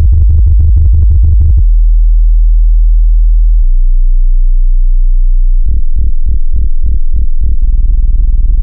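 Loud, very deep synthesized bass tones, like a bass test. A fast-pulsing low tone gives way after a second and a half to a steady low drone. A little past halfway it turns to a tone pulsing about three times a second, then holds steady near the end.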